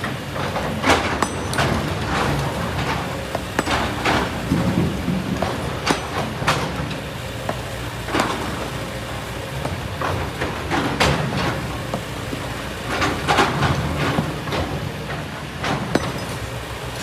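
Kobelco SK200 excavator's diesel engine running steadily, with repeated sharp knocks and clatter of stones and sand scattered through it as the bucket digs and loads.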